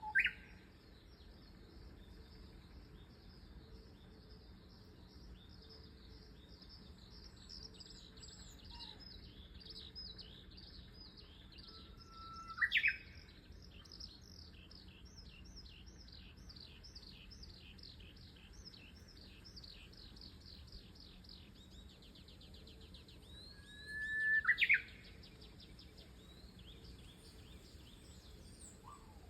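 A Eurasian skylark sings a long, unbroken stream of rapid high chirps. Over it, a Japanese bush warbler sings its louder song three times: once at the start, about halfway, and again near 24 seconds. At least the later two are 'hoo-hokekyo' songs, each a long held whistle breaking into a quick rising phrase.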